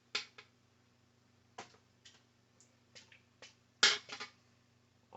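Scattered light clicks and knocks of a baking tin and chicken pieces being handled, the loudest knock nearly four seconds in, over a faint steady hum.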